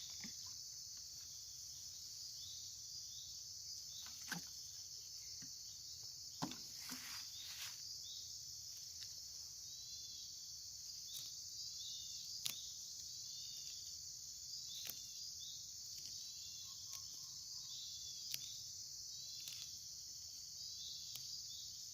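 Steady high-pitched insect chorus, with short chirps repeating about twice a second and a sharp click every few seconds.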